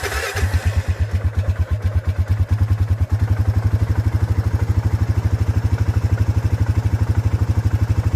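Off-road bike engine catching and running at a steady idle, a fast, even low putter. It is a little noisier for the first second or so after it fires.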